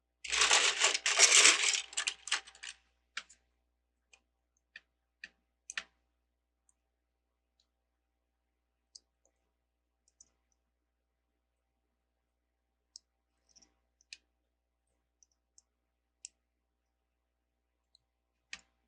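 Small plastic LEGO pieces clattering together for about three seconds, then scattered single clicks as the pieces are handled.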